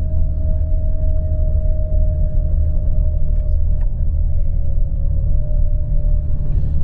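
Steady engine and road rumble inside a moving tour bus, with a faint steady whine that drops slightly in pitch near the end.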